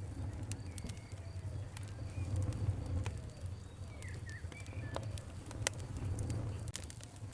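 Wood fire crackling, with irregular sharp pops and snaps over a low steady rumble, and a few birds chirping in the background.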